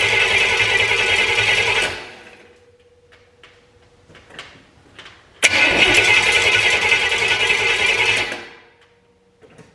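Small block Chevy V8 on an engine run stand being cranked over in two bursts: the first stops about two seconds in and spins down, then after a pause with a few faint clicks the second starts abruptly halfway through and runs about three seconds before spinning down again. These are attempts to get the freshly assembled engine to start.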